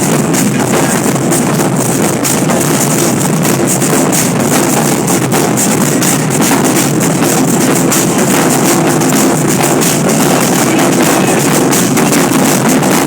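Loud music dominated by rapidly, densely struck drums, going on without a break.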